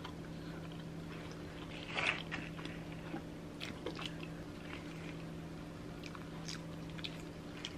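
Close-up mouth sounds of people biting and chewing pizza crust: soft wet clicks and crackles scattered through, the loudest about two seconds in, over a steady low hum.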